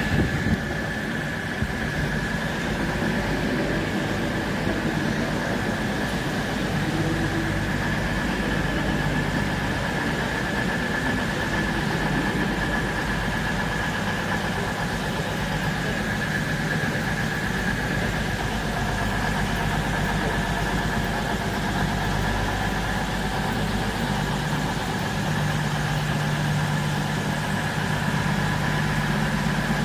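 Diesel train engine running steadily, heard from on board, with a low hum and a steady high-pitched whine over it.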